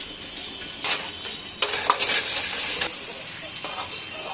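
Chicken momos frying in a hot pan, sizzling and being stirred with a metal utensil clinking against the pan. The sizzling swells loudly about a second and a half in and lasts about a second.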